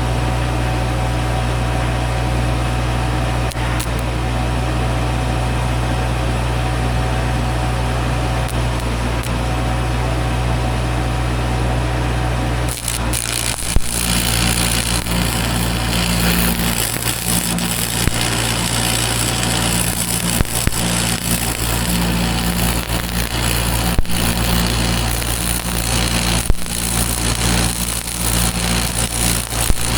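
An engine running steadily. About thirteen seconds in, a harsh, crackling hiss starts over it and continues, with a few sharp clicks.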